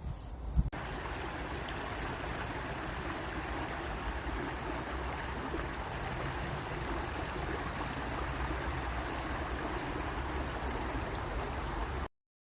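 Steady rushing of flowing water, like a stream, starting abruptly just under a second in and cutting off suddenly near the end.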